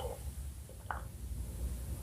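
Wet chewing of pomelo flesh that stops just as it starts, followed by a pause with one short wet mouth click about a second in, over a steady low hum.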